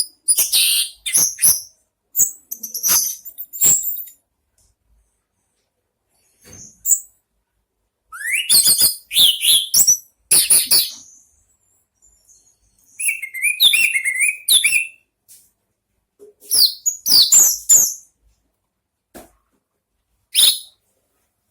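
Orange-headed thrush singing: short bursts of quick, high chirps and whistles, separated by pauses of a second or more, with one rising whistle about eight seconds in.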